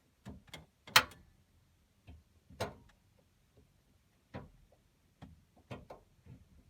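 Irregular clicks, knocks and clinks of gear being handled and set down, with a sharp clink about a second in and another a moment later, the rest lighter.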